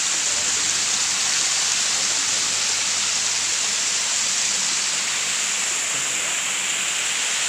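Steady rush of flowing water, a constant hiss-like roar that holds its level throughout.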